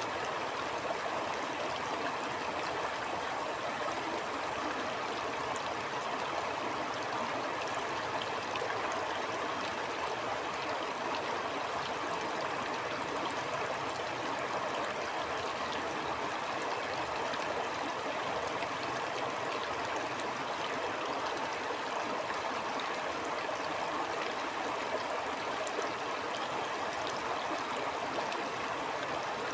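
Stream water flowing steadily over rocks, a constant rushing and gurgling with no pauses or changes.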